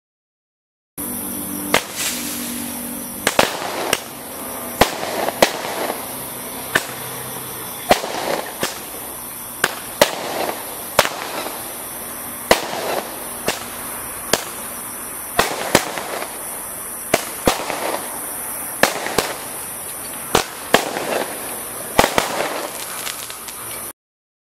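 A 16-shot fireworks cake firing, its shots going off one after another as sharp bangs every half second to a second over a steady hiss. It starts about a second in and stops suddenly near the end.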